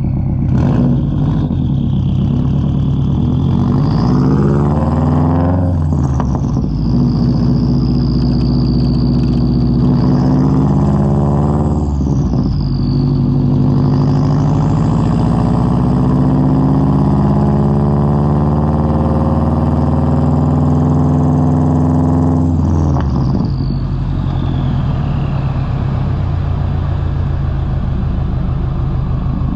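2003 Subaru WRX's turbocharged flat-four through a Tomei straight-pipe exhaust, accelerating through the gears. The pitch climbs and drops at shifts about 6 and 12 seconds in, then makes a long pull to about 22 seconds. It lets off near 23 seconds and runs at low revs.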